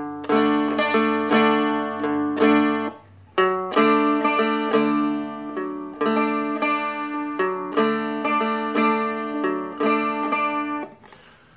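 Seagull Merlin M4, a four-string steel-string dulcimer-style instrument, strummed in full chords in a steady rhythm, with a short break about three seconds in and stopping near the end.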